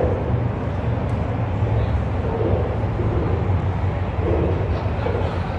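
Steady low vehicle rumble with faint voices in the background.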